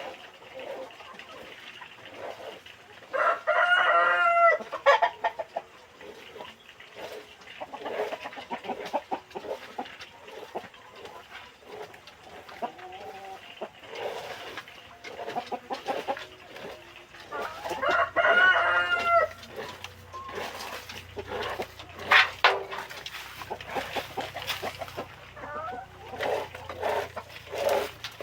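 Free-range village chickens clucking, with a rooster crowing twice: once a few seconds in and again past the middle.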